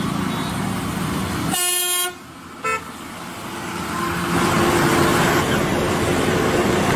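A vehicle horn gives one honk of about half a second, then a brief second toot, over steady engine and road noise that swells again after a few seconds.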